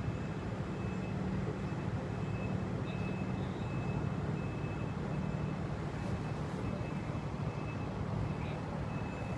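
Steady low engine drone from idling vehicles or machinery, unchanging throughout, with a faint thin high tone that comes and goes.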